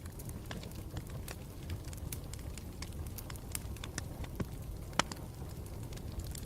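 Campfire burning with a steady low rumble and frequent irregular sharp crackles and pops, the loudest pop about five seconds in.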